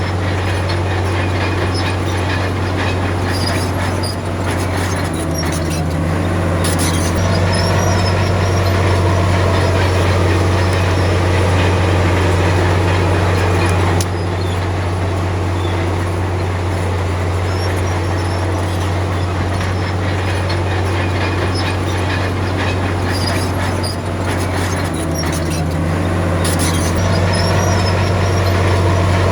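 Heavy diesel engine of a Komatsu D53P bulldozer running steadily under load, with a deep constant drone. Twice the engine note shifts while metallic clatter joins in, and about halfway through the sound drops slightly in level all at once.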